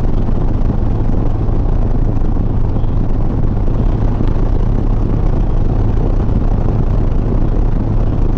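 Harley-Davidson Softail Sport Glide's V-twin engine running steadily at cruising speed, a constant low drone mixed with rushing wind and road noise.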